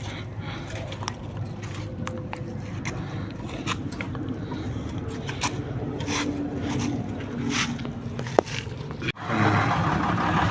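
Irregular scraping with scattered sharp knocks. About nine seconds in, the sound cuts off abruptly and gives way to louder steady noise with a low hum.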